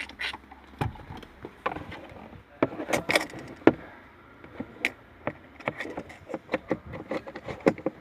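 Irregular clicks, taps and knocks of hands handling small hard objects, several a second at times, with the loudest knocks about three seconds in.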